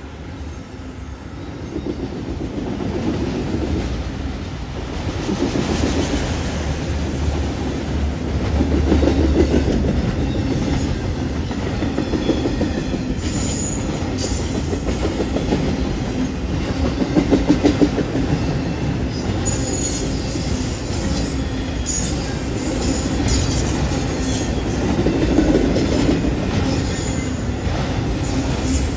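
Freight train of enclosed autorack cars rolling past at close range. A steady wheel rumble is overlaid with clickety-clack of wheels over rail joints and a junction switch, with a quick run of louder clicks a little past halfway. Faint high wheel squeals come and go.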